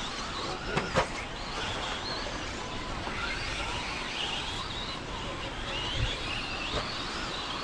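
RC stadium trucks racing on a dirt track: high-pitched motor whines rising and falling as they speed up and slow down, over a steady hiss, with a sharp knock about a second in.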